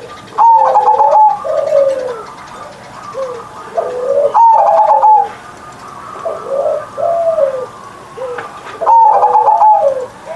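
Zebra dove (perkutut) cooing in repeated loud phrases about four and a half seconds apart, each opening on a higher note and dropping to lower rolling coos, with softer coos in between.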